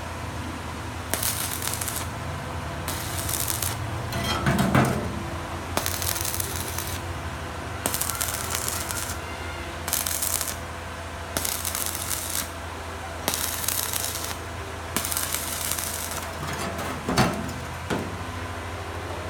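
Electric arc welding in short runs: about nine hissing bursts of half a second to a second each, with pauses between them, over a steady low machine hum. A couple of sharp metal knocks stand out, a little after four seconds in and again near the end.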